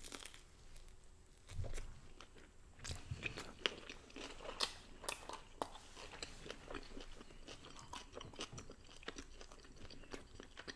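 Close-up chewing and biting of food, with irregular crunches and clicks from the mouth throughout and a few heavier bites in the first three seconds.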